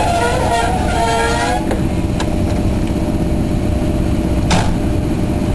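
Steady low hum and rumble of a passenger train standing at a station platform, with a few sharp knocks, the clearest about four and a half seconds in.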